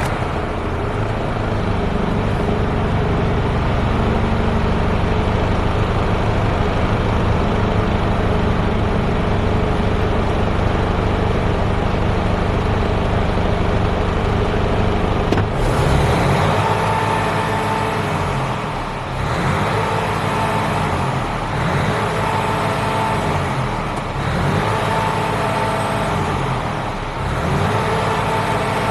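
Mercedes-Benz Actros tractor unit's Euro 6 diesel engine idling steadily, then revved repeatedly from about halfway through, rising and falling about five times a few seconds apart.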